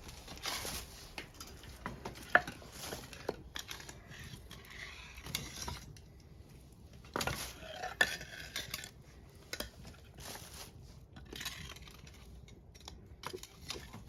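Metal utensils clinking and scraping against a cooking pot and dishes, with scattered sharp clinks and a couple of brief ringing ones.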